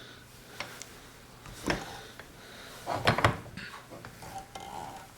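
Metal tools and parts being handled on a workbench: scattered clicks and light knocks, with a single knock under two seconds in and a loud cluster of metallic clinks about three seconds in.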